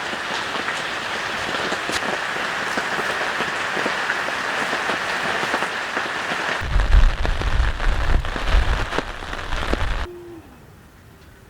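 Heavy rain pattering densely on a tent, with many individual drops ticking. About two-thirds of the way in, a deep low rumble joins for around three seconds, then the rain sound cuts off suddenly near the end.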